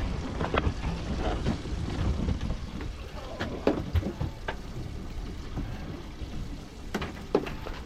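Wind rumbling on the microphone and water lapping against a small fishing boat, with scattered knocks and clicks of fishing gear being handled on board.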